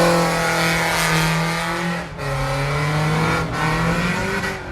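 Car engine held at high, nearly steady revs, dipping briefly about two seconds in and then carrying on a little lower.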